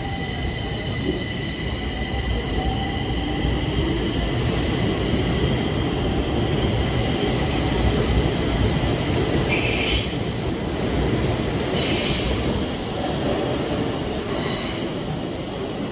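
Stockholm metro train running on the rails: a steady low rumble with a thin high whine at first, broken four times by short high-pitched bursts.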